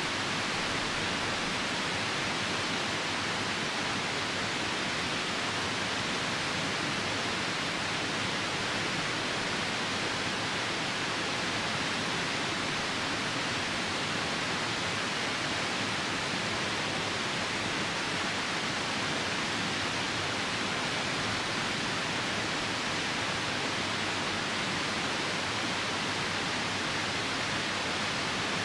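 Steady rushing water of a nearby river, a constant hiss with no breaks, with rain falling.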